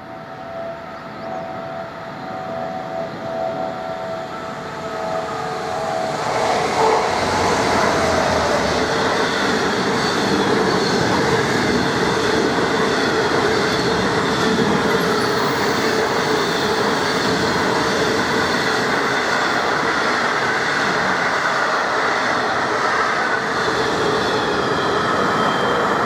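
Class 66 two-stroke V12 diesel locomotive hauling a ballast train past at speed. The sound grows louder over the first seven seconds or so as the train approaches, then the locomotive and a long string of wagons rolling by hold a loud, steady rumble with wheel clatter to the end.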